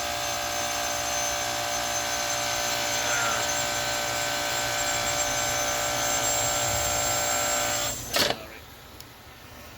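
Chiller compressor running with a steady hum of many tones, then about eight seconds in a sharp clunk and it shuts off: the compressor short-cycling, on a system whose contactor has burnt, pitted contacts.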